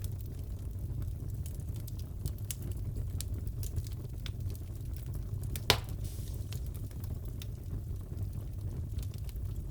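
Fireplace crackling: a steady low rumble from the fire with scattered small crackles and one loud pop just under six seconds in.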